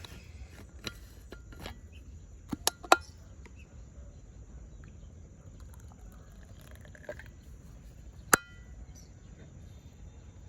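Coffee cup and its container being handled: a few sharp clicks and knocks about two and a half to three seconds in, the loudest, and a single ringing clink a little over eight seconds in.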